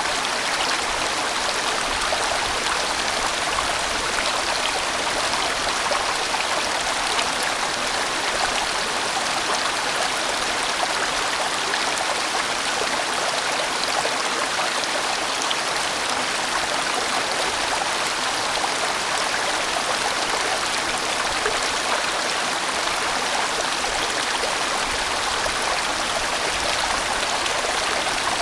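A large mountain stream rushing steadily over rocks, a full, even sound of flowing water without pause or change.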